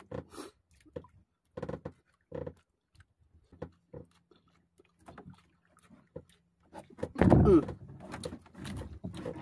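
A man eating with his fingers: short scattered chewing and mouth sounds with small knocks, and a louder burst about seven seconds in.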